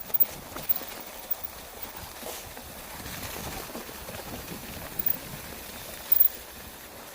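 Footsteps of a walker on a trail, irregular knocks and scuffs over a steady rustling noise.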